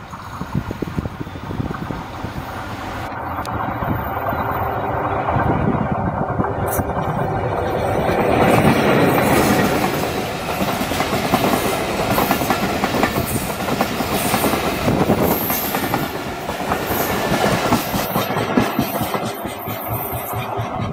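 Passenger train passing close by, its wheels clattering over the rail joints. The sound builds over the first several seconds and stays loud as the coaches go past.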